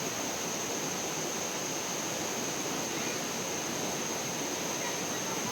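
Steady rushing of flowing water at an even level, with a constant high-pitched tone above it and a couple of faint chirps.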